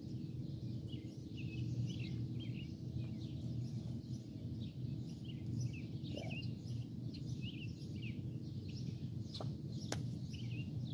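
Small birds chirping in quick repeated calls over a steady low hum, with one sharp click about ten seconds in.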